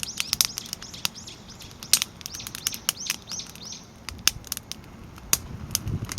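Firewood stacked crib-style burning in a steel fire pit, crackling with frequent sharp pops. A small bird calls a quick run of high chirps, about three a second, through the first half, and a low rushing sound builds near the end.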